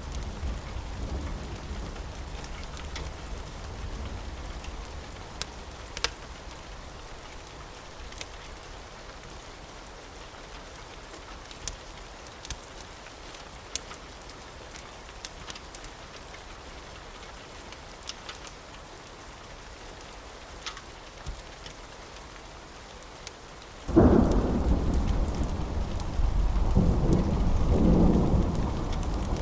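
Steady rain with scattered sharp crackles and a low thunder rumble fading away over the first few seconds. About 24 seconds in, a loud thunderclap breaks suddenly and rolls on as rumbling thunder, swelling again a few seconds later.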